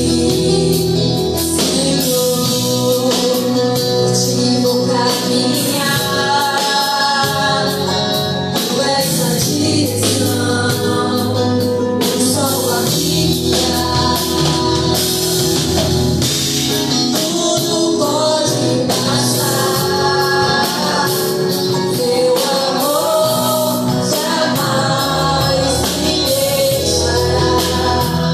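Live gospel worship song: voices singing over a church band with bass and drums.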